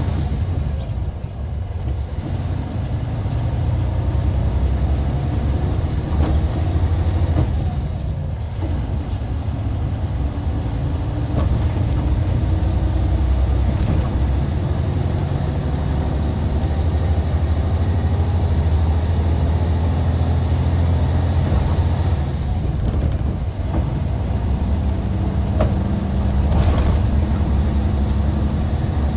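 Hyundai D6CC six-cylinder diesel of a Hyundai Universe coach running under way, a steady low drone. The engine note drops and climbs again several times and rises over the last few seconds.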